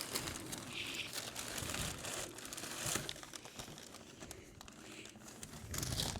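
Packaging crinkling and rustling as a new exhaust is unwrapped from its box, with many small crackles, fainter in the second half.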